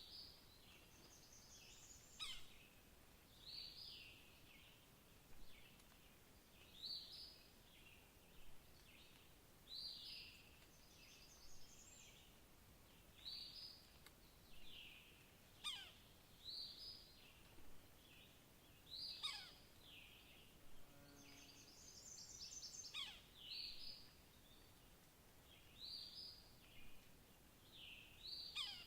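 Birds calling, one repeating a short call about every second and a half, with now and then a higher trill from another bird and a few quick falling whistles.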